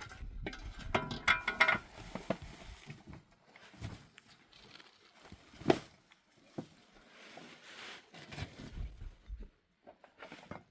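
Irregular knocks and clatter of objects being handled, denser and slightly ringing in the first two seconds, with one sharp knock about six seconds in.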